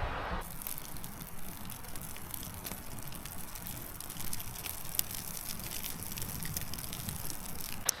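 Campfire crackling with scattered sharp pops over a steady rushing noise.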